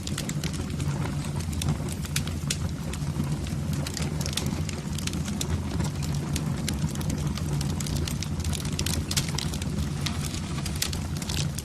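Fire burning in a fireplace: frequent irregular crackles and pops over a steady low rumble of the flames.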